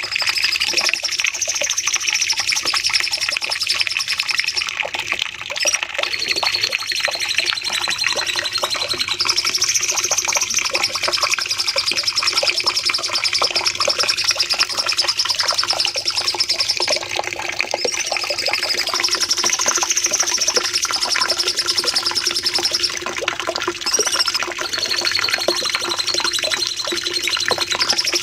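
Cucak cungkok songbird singing long, continuous high-pitched 'nembak' phrases: rapid trills carried on drawn-out shrill notes that rise and fall in long sweeps, without a break.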